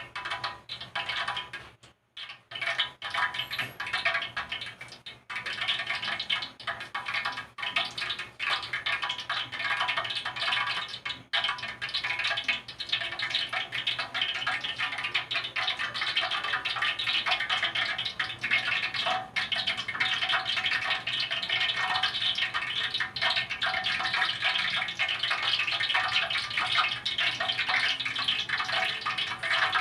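Hot oil sizzling and crackling steadily around a whole chicken deep-frying, with a brief drop about two seconds in.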